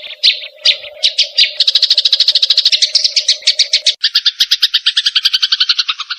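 Cucak jenggot (grey-cheeked bulbul) and sparrow calling in a fight: a few separate sharp high notes that speed up about a second in into a fast, steady chattering trill. At about four seconds a harsher chatter takes over, pitched both lower and higher.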